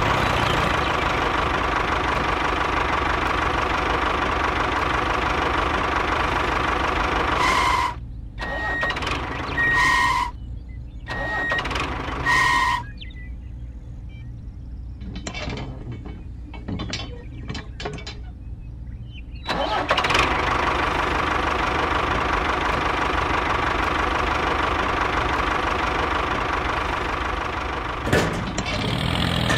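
Tractor engine running steadily. It drops out for several seconds in the middle, where a few short tones and light clicks are heard, then resumes.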